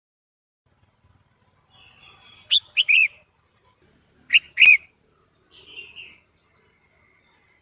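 Female red-whiskered bulbul calling: short, sharp chirped notes in quick groups of two or three, with softer notes between them. Calls like these are used to excite male bulbuls.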